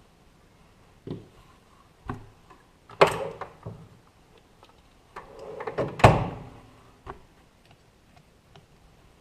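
Knocks and clatters of things being handled and set down during workshop work. Light knocks about one and two seconds in, two loud clattering impacts about three and six seconds in, and a last light knock about a second later.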